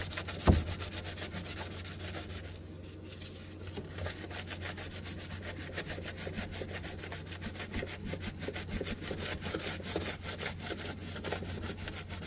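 A scrub sponge rubbing hard back and forth over a freezer surface in fast, continuous strokes, scrubbing off stuck-on residue, with a knock about half a second in. A steady low hum runs underneath.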